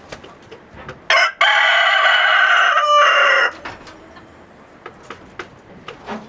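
A rooster crows once, starting about a second in: a loud, pitched crow lasting about two and a half seconds. Faint clucking and scattered small clicks sit underneath.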